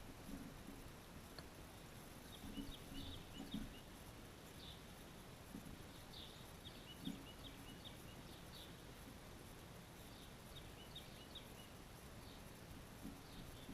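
Small pet birds chirping faintly: short, high chirps in quick little runs, coming every second or so. A few soft low thuds sound among them.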